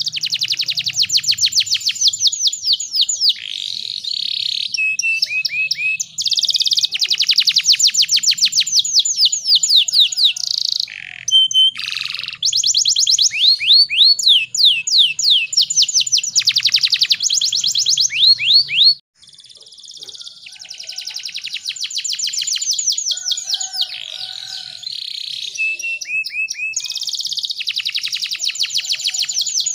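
Domestic canary singing long, fast trills of rapidly repeated sweeping notes, one run after another, with a brief pause a little past the middle.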